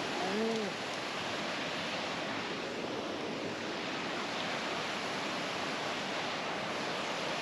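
Steady rushing of a waterfall and river. About half a second in, a person makes one short voiced sound that rises and falls in pitch.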